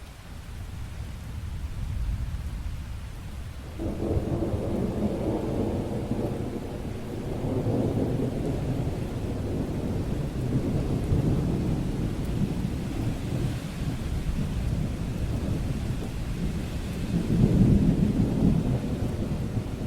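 Long rolling thunder over steady rain. The rumble builds over the first couple of seconds, jumps in sharply about four seconds in, and swells loudest again near the end.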